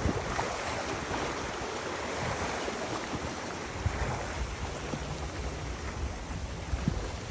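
Wind gusting against the microphone with a low, uneven rumble, over a steady rush of moving river water.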